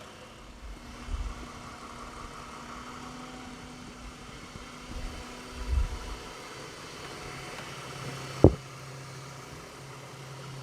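Ford BF Falcon engine idling steadily and quietly, its belt-driven accessories whirring, with the earlier clanky mystery noise settled down. A couple of soft low thumps, and one sharp knock late on.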